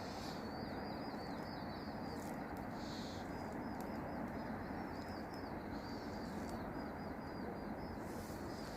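A bird chirping steadily with quick, high, repeated short notes, a few per second, over a constant outdoor background hiss.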